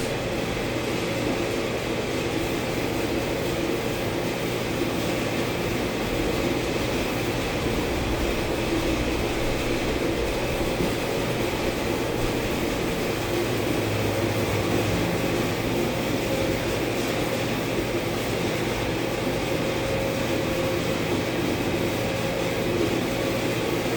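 A steady mechanical hum with several constant tones under an even hiss, at an even level throughout.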